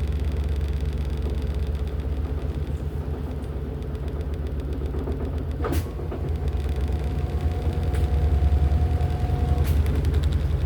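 LG top-loading washing machine running, a steady low hum with an even rhythm. A sharp click comes a little past halfway, a faint steady whine follows for about three seconds, and another click comes near the end.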